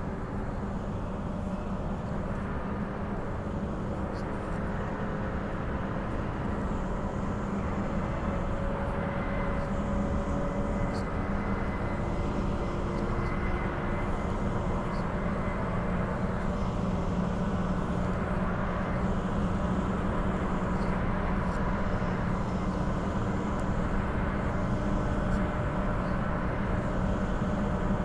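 Inside a moving Bombardier B-series electric multiple-unit train: a steady rumble of wheels on the track with faint whining tones from the traction equipment, gradually getting a little louder.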